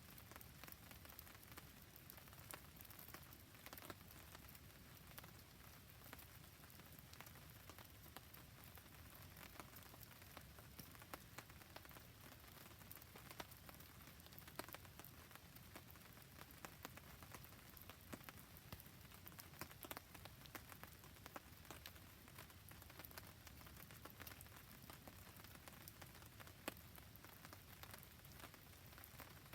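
Faint, steady rain falling beside a wood campfire: an even hiss of rain dotted with many small drips and ticks.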